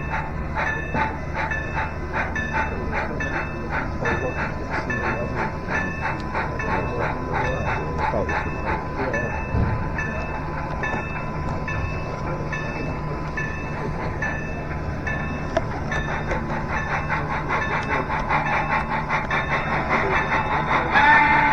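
Sound-equipped model of N&W 475 steam locomotive chuffing in a steady, regular beat as it runs along the layout. Its whistle starts to blow near the end.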